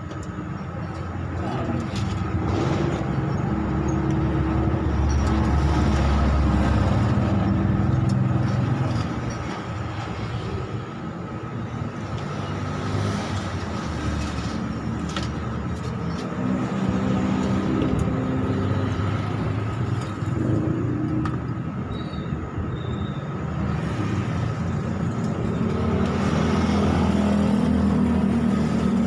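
Road traffic: motor vehicle engines rumbling past, swelling twice, with a thin steady high tone underneath.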